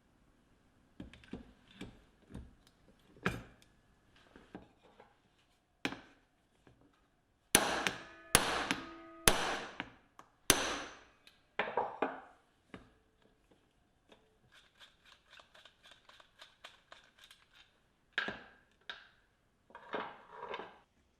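Hand work on rusty metal drill parts: scattered knocks and clinks, then four loud metallic hammer blows that ring briefly, a run of quick light clicks, and a few more knocks near the end.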